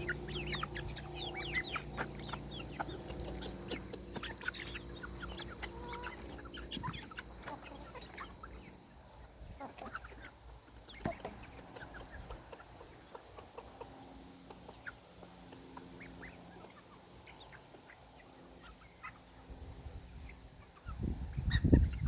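A flock of chickens clucking as they feed on rice and watermelon scraps, busiest in the first several seconds and thinning out after that. A loud low rumble comes near the end.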